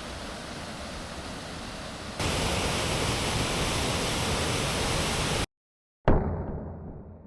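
Waterfall water rushing in a steady, even roar. It gets louder about two seconds in, then cuts out for half a second and comes back sudden and loud before fading away.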